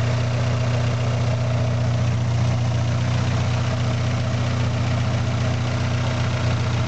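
Toyota 4A-GE 20-valve Blacktop four-cylinder engine idling steadily. Its ignition timing has been advanced by ear, without a timing light, to improve the idle.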